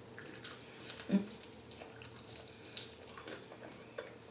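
Close-up chewing of a crispy chicken wing: scattered crunches and wet mouth clicks, with a short hum about a second in.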